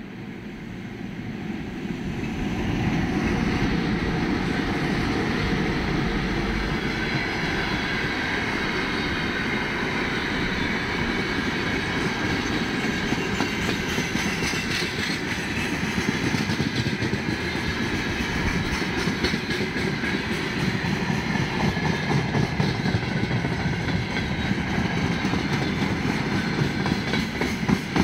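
Freight train of gondola cars and tank-container flatcars rolling past at speed. The sound builds over the first three seconds as the train arrives, then runs as a steady rumble of wheels on rail with an even clickety-clack over the rail joints, sharper near the end.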